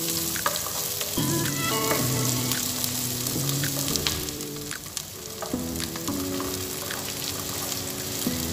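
Chopped garlic, onion and ginger sizzling in hot olive oil in a pan, with occasional clicks from stirring. Soft background music with held notes plays underneath.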